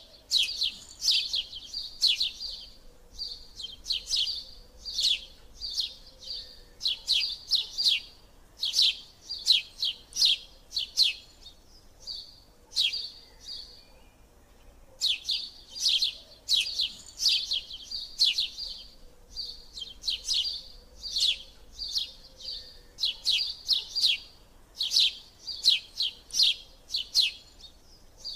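Small birds chirping: runs of short, high chirps, several a second, pausing briefly about halfway through.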